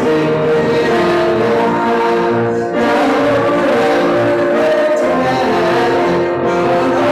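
Church congregation singing a hymn together, the voices holding long, sustained notes.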